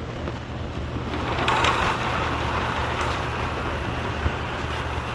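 Himiway Cruiser e-bike's rear hub motor running under throttle, spinning the free wheel, over a steady low hum with an unusual rough noise that swells about a second and a half in and holds; the owner takes it for a sign of a drive failure.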